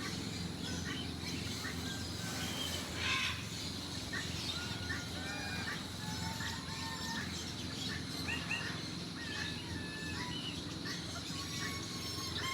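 Many birds chirping and whistling in short, scattered calls over a steady low hum.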